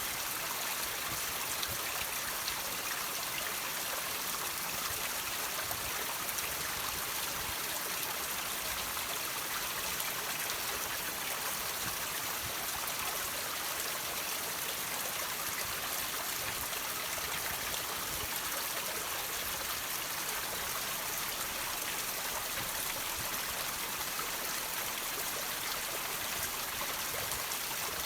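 Water trickling and dripping from rocks into a small stream, a steady splashing patter with many small drops.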